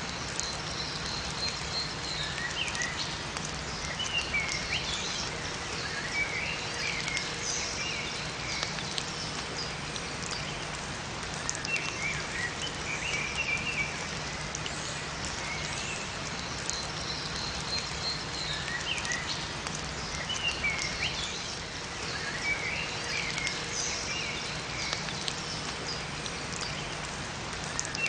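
Steady rain falling in a forest, with small songbirds chirping and twittering in repeated bursts over it.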